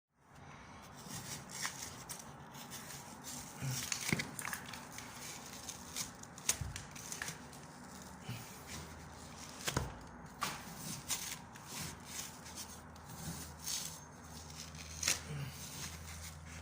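Rustling and rubbing handling noises of hands working, with scattered light knocks and clicks, the sharpest about 4, 10 and 15 seconds in.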